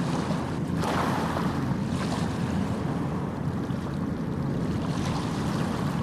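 Light sea waves washing onto a sandy beach, the water splashing in brighter hissing washes about a second in, at about two seconds and near five seconds, over a steady low rumble.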